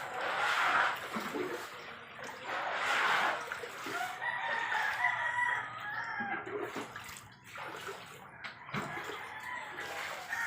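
Domestic chickens clucking, with a rooster crowing one long call about four seconds in.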